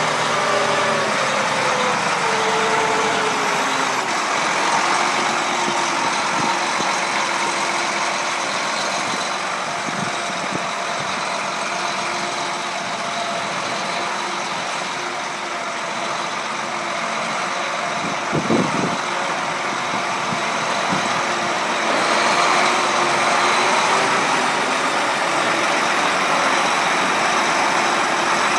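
John Deere 8235R tractor's six-cylinder diesel engine idling steadily just after a cold start. One tone slides down in pitch in the first few seconds, there is a brief knock about 18 seconds in, and it gets a little louder about 22 seconds in.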